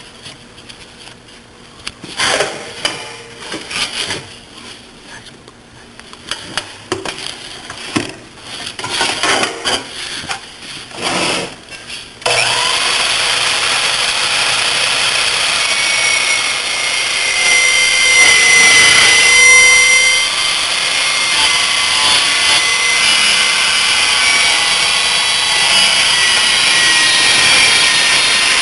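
Scattered knocks and clatter for about twelve seconds, then a metal-cutting sliding miter saw running loud and steady to the end, its blade cutting with a high ringing screech that is loudest a few seconds after it begins.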